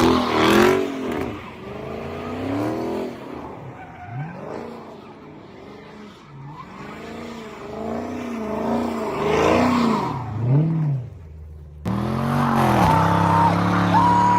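Car engine revved again and again, its pitch rising and falling with each rev. About twelve seconds in, the sound cuts abruptly to a louder, steadier engine note.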